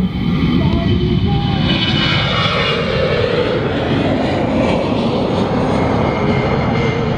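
Jet airliner engines running loud and close, a steady roar with a higher whine that swells about two seconds in and then eases off.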